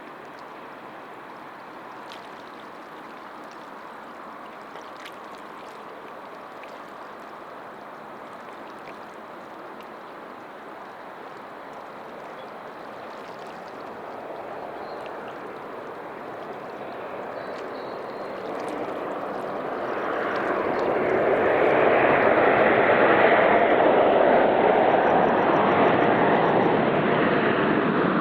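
Jet airliner engine noise, faint at first, then swelling steadily from about halfway through to a loud, broad rushing sound near the end as the aircraft passes close by.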